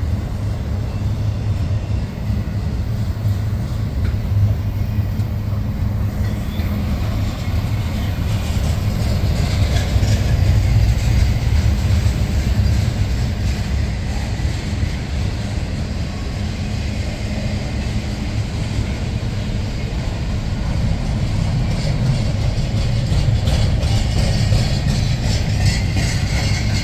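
Double-stack intermodal container well cars of a freight train rolling past on steel wheels and rail, a deep, steady rumble that never lets up.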